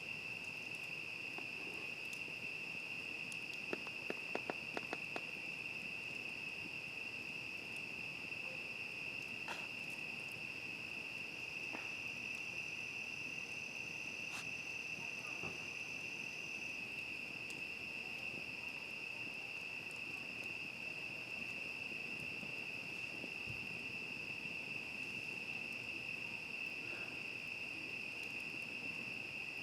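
Night chorus of crickets, a steady unbroken high trill, with a second higher insect voice joining for a few seconds in the middle. A quick cluster of sharp clicks comes about four seconds in, and a few single ticks come later.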